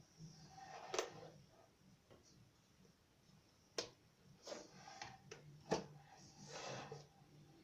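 Light handling sounds: a few sharp clicks and knocks, the loudest about a second in and near the middle, with short rustles between, as of a plastic fan housing being handled and set up on a table. A faint low hum sits underneath.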